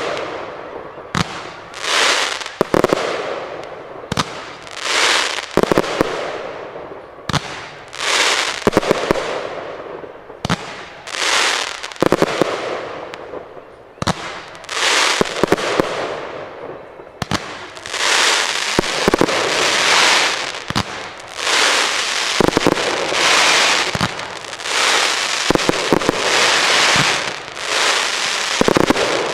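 Aerial firework shells bursting one after another, each bang trailing off in about a second of hiss. Past the halfway point the bursts come faster and the hiss runs together.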